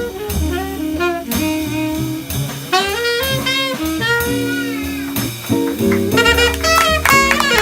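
Live jazz quartet playing a bebop passage, a saxophone carrying the melody over walking bass notes and drums.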